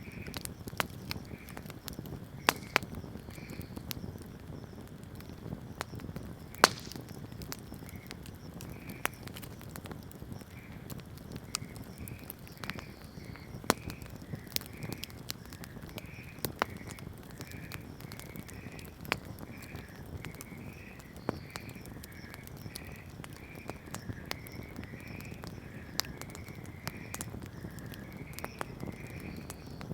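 Wood campfire burning: a steady low rush of flames with irregular crackles and sharp pops from the burning wood, one especially loud snap a little after six seconds in.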